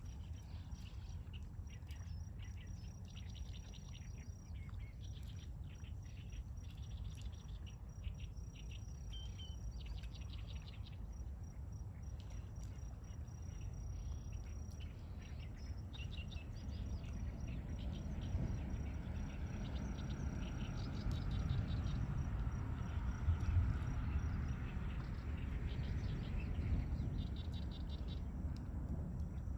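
Dawn chorus of small birds chirping and twittering, many short calls overlapping. Under them runs a steady low rumble that swells for several seconds in the second half.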